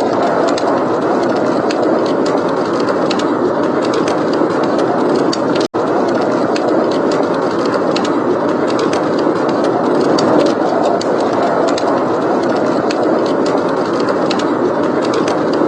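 Blizzard wind rushing steadily, with a wood fire crackling in small scattered pops over it. The sound drops out for a split second just before six seconds in.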